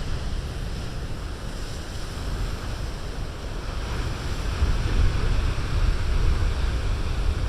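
Big ocean waves breaking and rushing on the shore, with wind rumbling on the microphone; the surf swells louder about halfway through.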